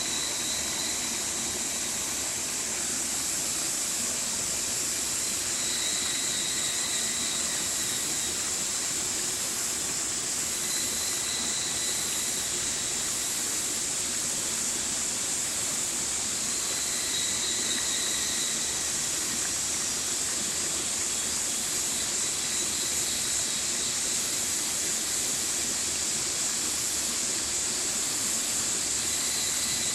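Stream water rushing steadily, a continuous bright hiss. A faint high tone fades in and out every few seconds.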